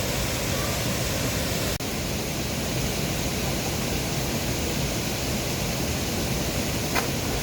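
Steady rush of flowing water from a mountain valley stream, with a momentary dropout about two seconds in.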